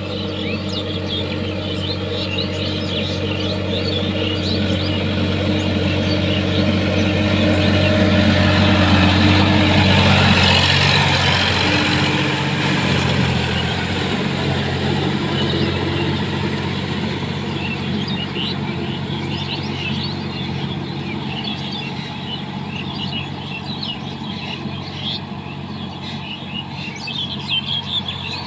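Sonalika tractor's diesel engine running steadily. It grows louder to a peak about ten seconds in, then fades with its pitch dropping a little. Birds chirp throughout.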